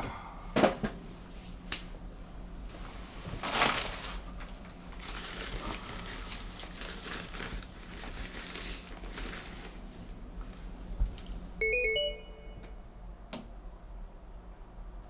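Rustling and handling noises, then about twelve seconds in a short electronic mobile-phone tone of a few stepped beeps.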